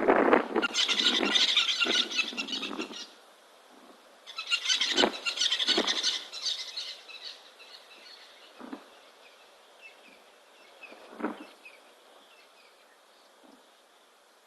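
Two loud bursts of shrill, chattering animal calls in chorus, the second fading out after about seven seconds. Scattered single knocks or drips follow, the clearest about eleven seconds in.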